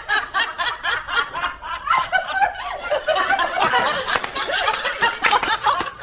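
Several people laughing, chuckling and snickering in quick bursts.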